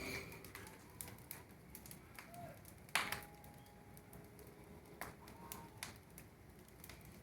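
Bonfire of wood and old rubbish crackling faintly, with scattered pops. A sharp pop comes about three seconds in and another about five seconds in.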